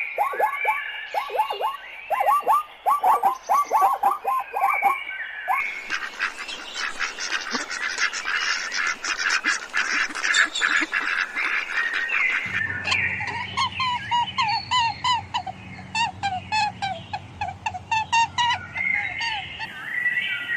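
Flock of waterfowl calling, many quick repeated calls overlapping, in several spliced clips. A low steady hum runs under the later part.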